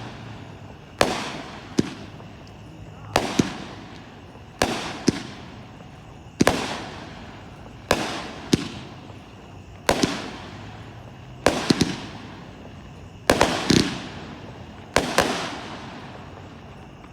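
A 16-shot, 200-gram consumer firework repeater cake ('Pumpkin Patch') firing its shots. Sharp bangs come every second or two, often in quick pairs, and each is followed by a fading tail. The last shot comes about 15 seconds in.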